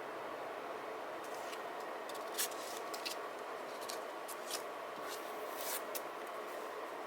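Paper and stickers being handled while decorating a journal: a few short, crisp ticks and rustles, the loudest about two and a half seconds in, over a steady background hum.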